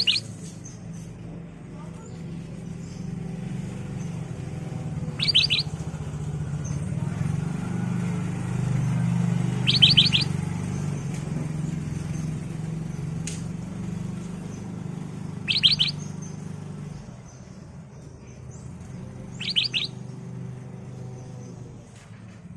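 Black-crested bulbul giving short, rapid calls of three or four quick notes, repeated about every five seconds, over a steady low hum that swells in the middle.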